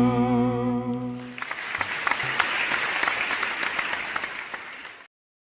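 Music with long, wavering held notes ends about a second in and gives way to applause, which cuts off abruptly about half a second before the end, leaving dead silence.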